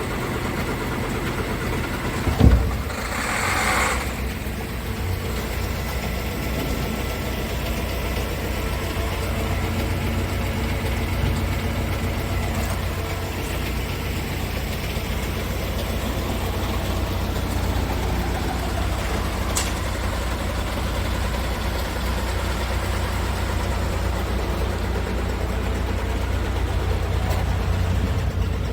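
Scania R500 truck's V8 diesel engine idling steadily. About two seconds in there is a loud thump, followed by a short hiss.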